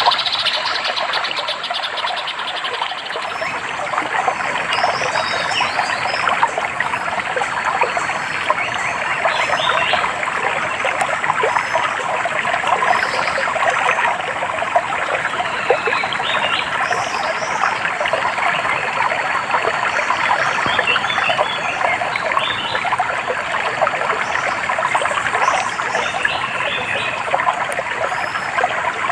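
Stream water trickling and running steadily, with short high bird chirps scattered over it.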